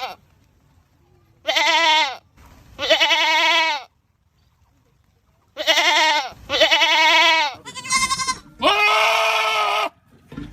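Goats screaming: six wavering calls of about a second each. Two come in the first four seconds, then after a pause four more follow close together.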